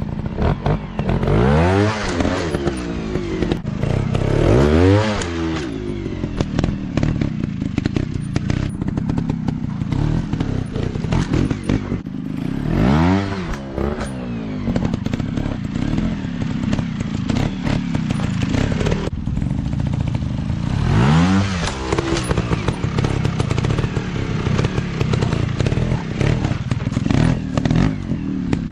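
Off-road dirt bike engine running continuously, revved hard about four times, each rev rising and then falling in pitch.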